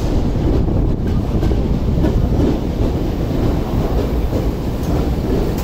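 Hibiya Line electric commuter train running past close alongside a station platform: a steady, loud rumble of wheels on rail with light clicking.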